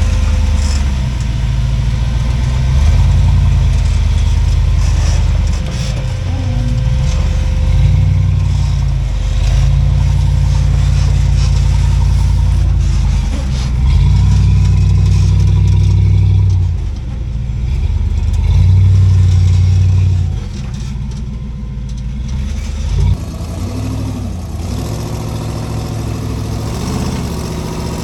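Off-road rock-crawling rig's engine revving in repeated surges of a few seconds each. About 20 seconds in it drops to a lower, steadier run, with a single knock a few seconds later.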